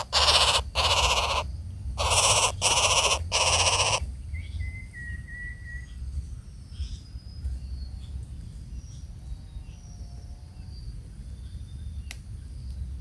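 Bird calls: a series of loud, harsh, rasping calls in about four bursts, then quieter scattered calls after about four seconds, including a short thin whistle.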